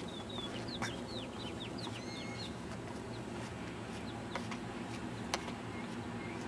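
Bird calls: a quick run of short, high, sliding chirps in the first two seconds or so, over a steady low background rumble, with a couple of sharp clicks later on.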